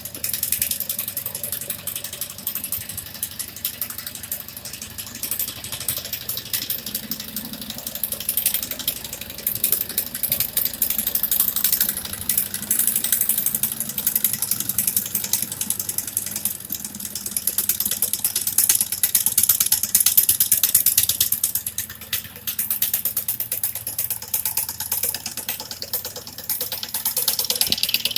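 Model electromagnetic engine running, giving a fast, continuous clatter of rapid mechanical clicks.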